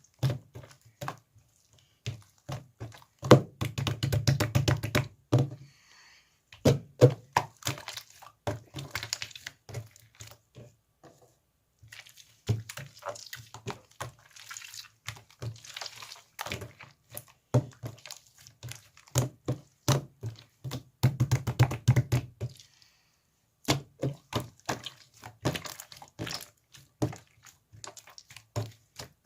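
Slime being pressed and worked by hand: a steady run of sticky clicks and pops, with two dense bursts of crackling, about three seconds in and again about twenty-one seconds in.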